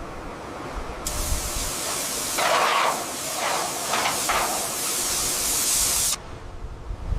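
A loud, steady hiss of spray that starts abruptly about a second in, surges several times in the middle, and cuts off abruptly near the end.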